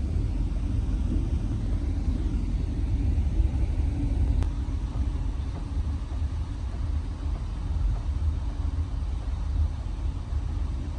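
Moving train's steady low rumble.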